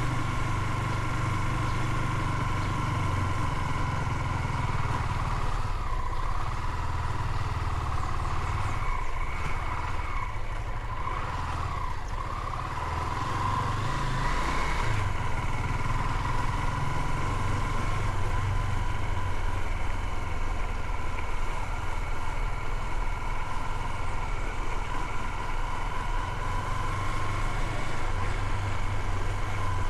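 Motorcycle engine running steadily while riding, with a constant whine above the rumble. The engine eases off for a few seconds about a third of the way in, then picks up again.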